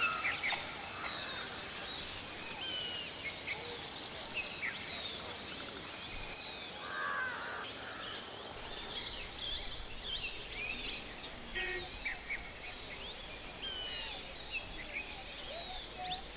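Many small birds chirping and calling over steady background noise, with a burst of rapid chirps near the end.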